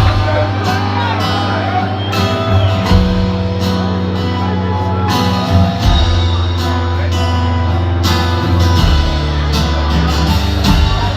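Live band playing in a large hall: guitar over held bass notes, with percussive hits now and then.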